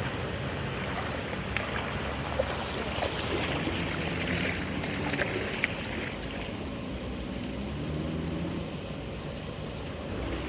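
Water rushing and splashing steadily, with a few short sharp knocks.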